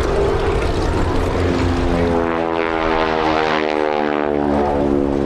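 North American NA-64 Yale's Wright R-975 Whirlwind radial engine and propeller droning past in a low flypast, the engine note dropping in pitch as the aircraft goes by.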